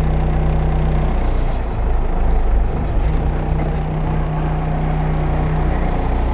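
Case 580 Super L backhoe's diesel engine running hard as it lifts a heavy chained log. The steady engine note breaks up about a second in and settles again about three seconds in.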